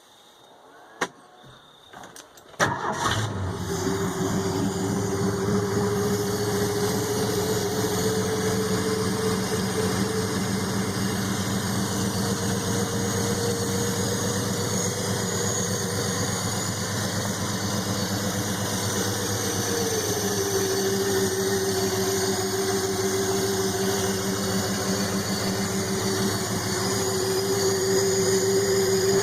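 Straight-piped 1968 Ford 300 (4.9 L) straight-six starting from cold: it catches suddenly about three seconds in and settles into a steady idle. The idle steps down a little about twenty seconds in. The engine runs with its valve cover off.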